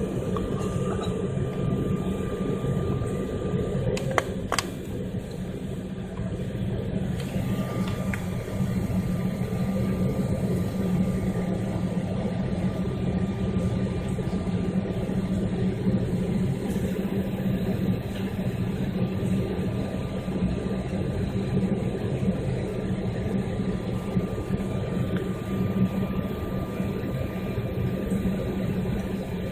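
Airliner engines droning steadily, heard from inside the passenger cabin, with a faint steady whine above the drone. A couple of short clicks about four seconds in.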